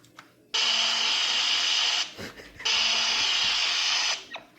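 iPhone 6 Plus speaker giving out loud bursts of harsh static hiss, each about a second and a half long with short breaks between, at full volume. It is a fault in the phone that stays the same on a different charger.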